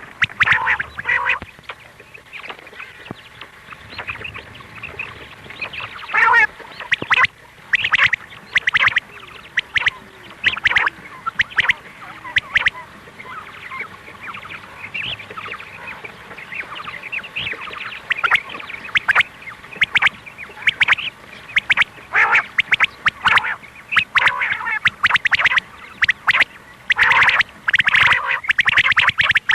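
Recorded female quail (batair) calls: short, sharp calls repeated over and over, often in quick clusters. This is a lure call played to draw quail in for hunting.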